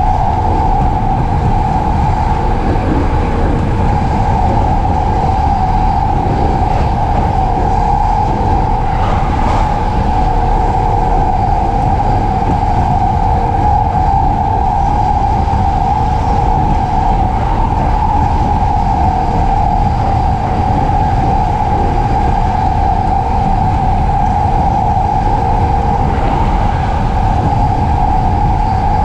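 JR East E233-series electric commuter train running at steady speed, heard from inside the carriage: continuous wheel-on-rail running noise with a low rumble underneath.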